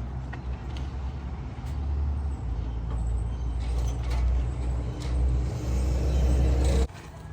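An engine running steadily with a low hum, which stops abruptly near the end.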